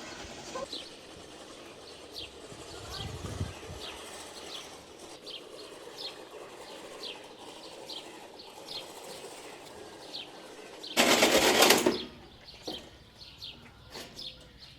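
A bird calling over and over with short, high, falling chirps, a little over one a second. About eleven seconds in, a loud rush of noise lasts about a second.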